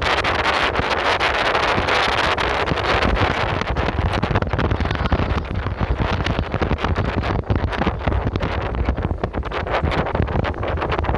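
Wind buffeting the microphone: a steady rumble with constant crackling gusts.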